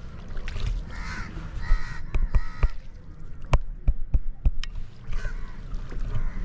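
Birds calling in a run of short repeated calls, broken around the middle by a few sharp knocks.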